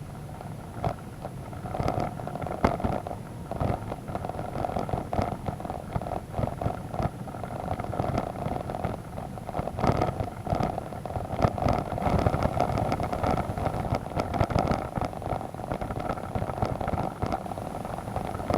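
Motorcycle engine running while riding a muddy dirt road, with frequent sharp knocks and clatters over the steady engine sound.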